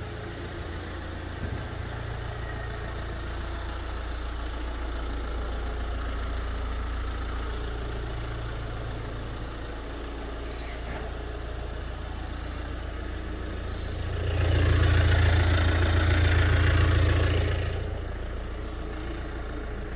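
Hyundai Tucson turbo-diesel engine idling steadily, growing louder for about three seconds near the end before settling back.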